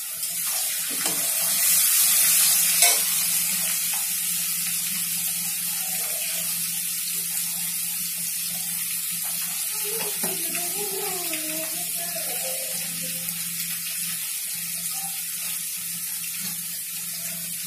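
Potato chunks frying in hot mustard oil in an iron kadai: a steady sizzle, loudest about two seconds in, with a couple of light knocks near the start.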